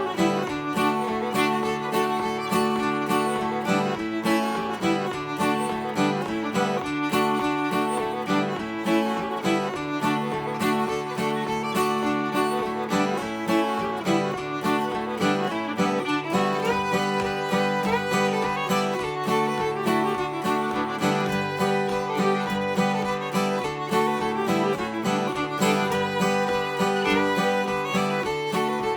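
An old-time fiddle tune in the key of D played on fiddle in standard tuning, with an acoustic guitar strumming a steady rhythm behind it.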